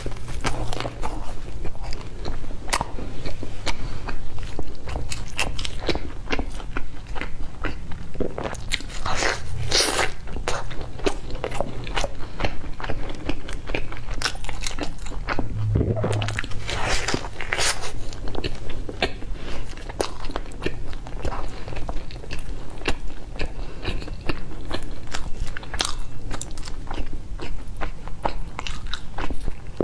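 Close-miked biting and chewing of pizza crust: a steady stream of crisp crunches and small clicks, with a few louder crunchy bites about a third of the way in and around the middle.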